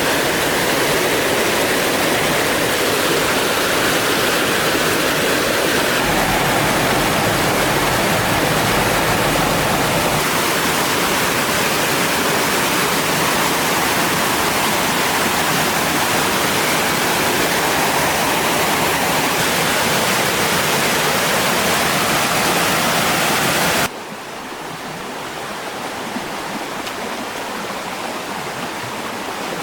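Steady rush of flowing stream water. Near the end it drops suddenly to a quieter, duller rush.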